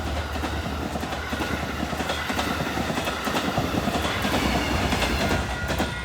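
Passenger train rolling past, its wheels clicking over the rail joints above a steady rumble. The sound eases off near the end.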